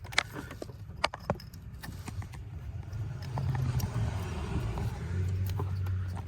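Handling of plastic wiring-harness connectors, with a few sharp clicks in the first second and a half. A low steady hum builds from about halfway through and continues to near the end.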